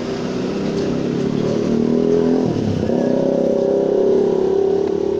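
Electric hand drill motor running at speed on a test after its broken power cable was rejoined, a steady whine; about two and a half seconds in the motor speed drops briefly and picks back up.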